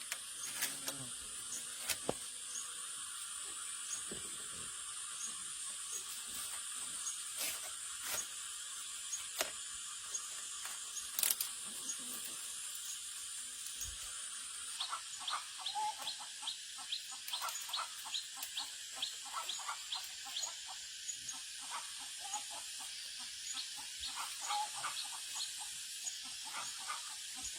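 Chickens clucking, a run of short quick calls that starts about halfway in, over a steady high hiss with scattered sharp clicks before it.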